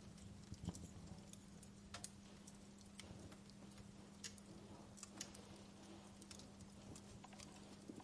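Quiet wood fire crackling in a fireplace: irregular small pops and snaps over a low rumble, with a faint steady hum underneath.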